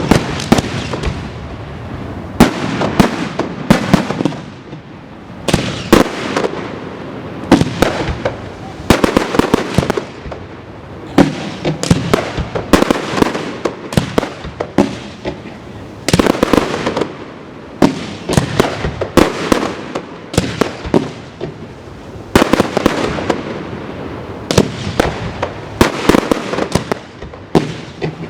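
Fireworks going off in rapid succession: many sharp bangs and crackles, bunched in volleys every second or two without a break.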